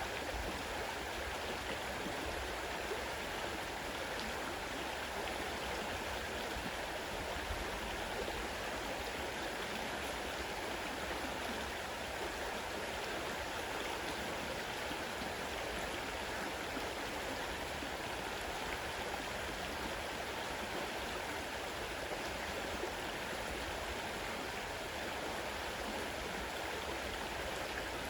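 Fast-running river rushing steadily, an even broad wash of water sound with no breaks.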